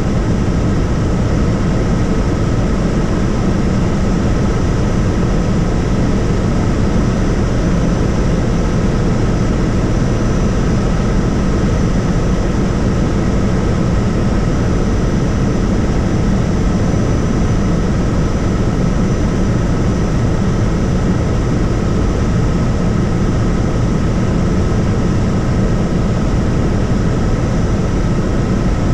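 Helicopter in flight: loud, steady rotor and engine noise with a constant high whine over it.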